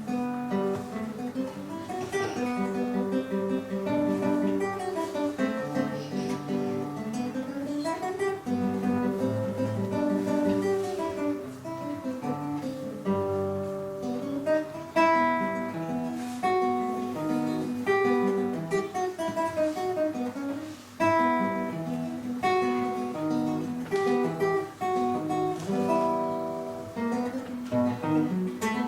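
Instrumental music on plucked string instruments, a lively melody of quick running notes over lower accompanying notes.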